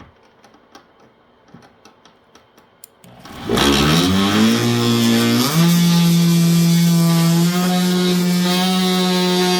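Corded oscillating multi-tool, a 2-amp variable-speed model, switched on after a few faint clicks. Its motor buzz climbs quickly in pitch, steps up twice more and then holds a steady speed.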